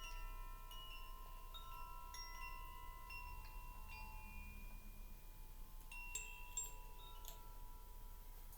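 Wind chimes ringing: scattered high, clear notes struck at irregular moments, each ringing on and overlapping the others. A fresh cluster of strikes comes about six seconds in.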